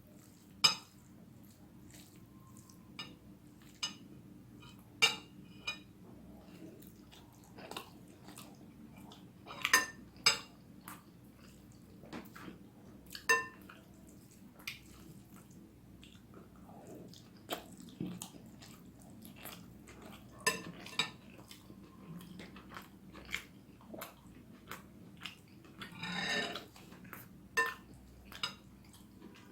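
Close-miked eating of spicy vegetable noodles: cutlery clicking and clinking against a plate every second or two, with soft chewing between. One longer, noisier sound comes near the end.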